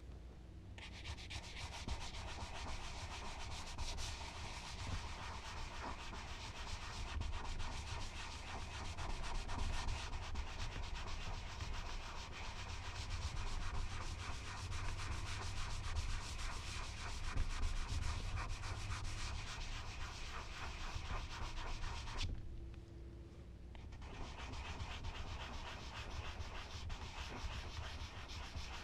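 Charcoal drawing on smooth Bristol paper: continuous scratchy rubbing of strokes across the paper. It stops for a moment about 22 seconds in, then starts again.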